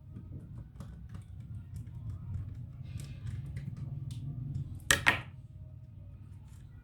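Light clicks of small laptop parts and tools being handled, with a sharp double clack about five seconds in, over a steady low hum.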